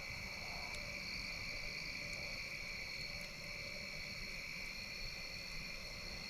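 Steady chorus of crickets trilling, with a few faint pops from the campfire.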